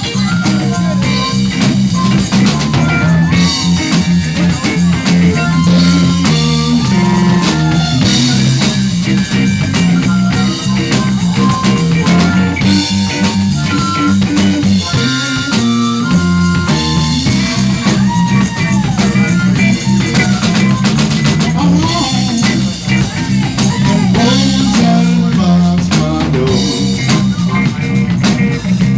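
Live band playing an instrumental passage on drum kit, bass and guitar, with bending guitar notes over a steady beat.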